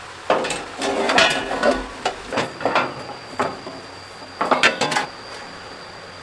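Metal tools and machine parts clanking and scraping during hands-on repair work, a run of sharp knocks with a ringing edge, busiest about a second in and again near five seconds.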